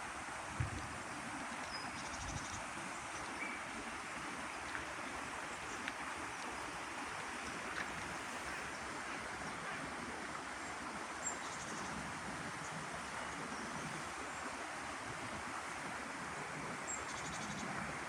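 Steady outdoor nature ambience: an even rushing hiss with a few faint clicks and a short low thump about half a second in.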